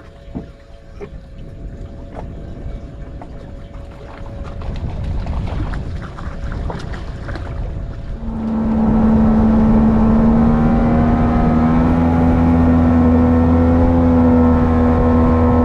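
Boat motor running low with a few knocks, then opened up about eight seconds in and running steadily at speed, much louder.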